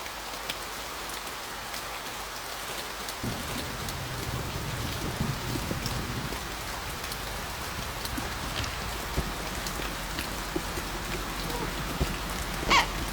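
Heavy rain falling on a car's roof, heard from inside the cabin: a steady hiss dotted with individual drop hits.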